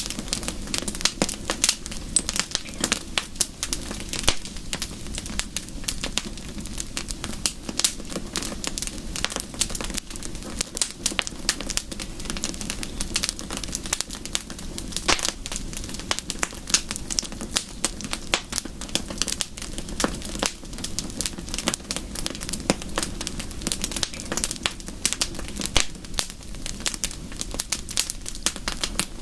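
Wood fire crackling: dense, irregular sharp snaps and pops over a steady low rush.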